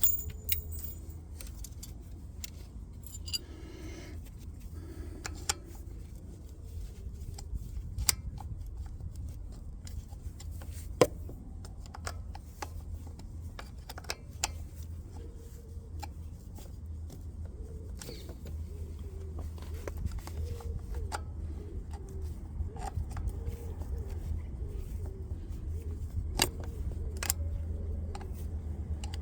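Scattered light metallic clicks and taps of a spanner and small hardware being handled during work on motorcycle battery terminals, over a steady low hum.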